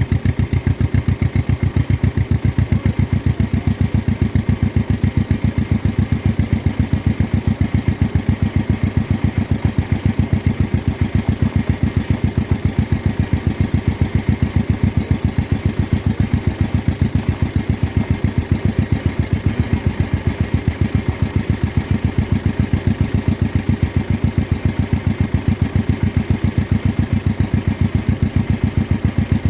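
1953 John Deere 40's two-cylinder engine running steadily, with an even, rapid firing beat.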